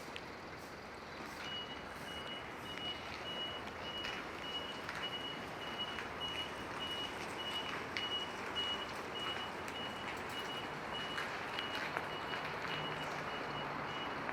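A vehicle's reversing alarm beeping steadily, a single high beep about one and a half times a second, over the hiss of rain with scattered drops ticking.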